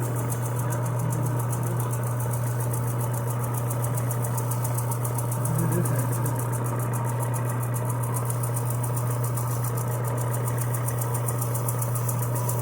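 Electric power sander running steadily as it sands a pedal handle, a constant motor hum with a rapid vibrating hiss.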